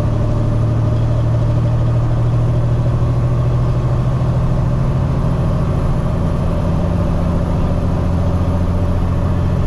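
Heavy truck's engine running steadily, heard from inside the cab: a low, even drone with no change in pitch.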